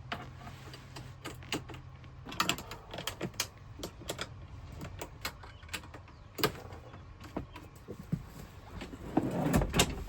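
Metal clicks and knocks from the Ford Transit swivel seat's parts being handled and fitted, heaviest near the end. A low steady hum stops a couple of seconds in.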